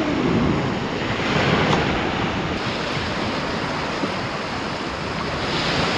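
Sea waves washing on the shore, a steady rushing sound, with wind buffeting the microphone. It swells slightly near the end.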